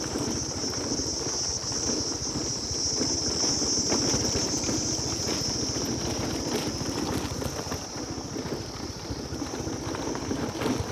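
Steady high-pitched chorus of insects trilling without a break, over a constant low rumble.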